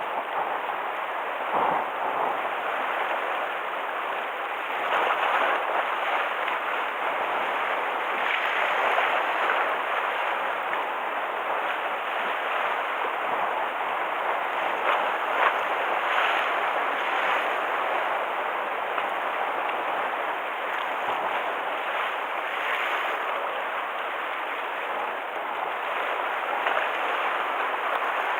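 Sea waves washing and breaking against the harbour shore in a continuous rush that swells every few seconds, with the water churned up by a passing typhoon.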